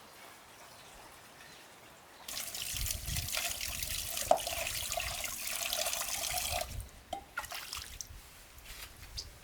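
Water running or pouring with a rushing splash for about four seconds, starting about two seconds in and cutting off abruptly, followed by a few light knocks.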